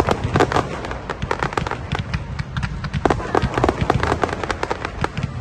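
Fireworks going off in a dense, irregular string of sharp bangs and crackles, several a second, over a continuous low rumble.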